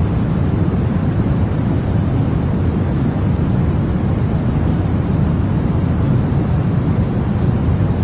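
Continuous white noise for baby sleep, a steady, even rush weighted heavily toward the deep end, so it sounds more like a low rumbling hiss than a bright one. It has no breaks or changes.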